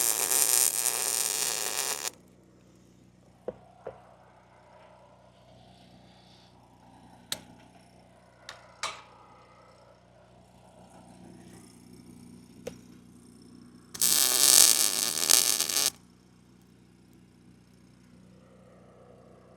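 Electric arc welding: two tack welds of about two seconds each, a dense crackling buzz at the start and again about 14 seconds in, with a few light metal clinks in between.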